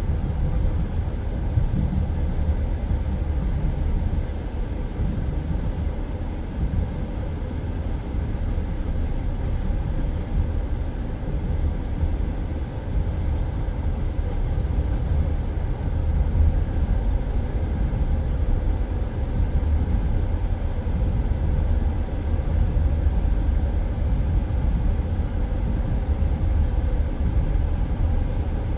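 Passenger train running along the line, heard from inside the carriage: a steady low rumble of the wheels on the rails with no change in pace.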